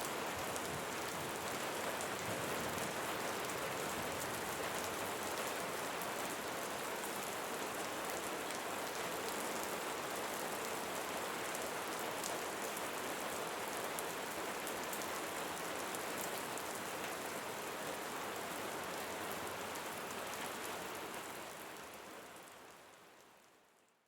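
Steady rain falling, an even hiss with fine drop ticks, fading out over the last few seconds.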